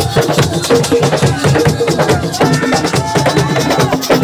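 Live assiko band music: dense, fast rhythmic drumming and percussion with held melodic notes over it.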